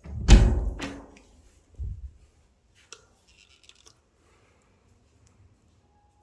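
A loud thump with a second of scraping, rustling noise, then a softer low thump about two seconds in and a few light clicks.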